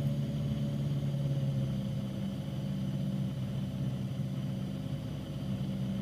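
Piper PA-28 light aircraft's piston engine and propeller droning steadily in the cockpit on final approach, the engine note shifting slightly about two seconds in.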